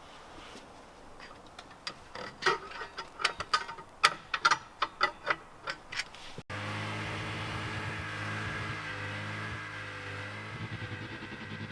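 A run of irregular metallic clinks and knocks from hand tools working on a car, then a sudden change about six seconds in to a car engine idling steadily.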